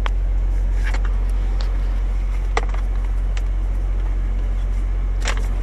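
Semi truck's diesel engine idling with a steady low hum, with a few light clicks over it.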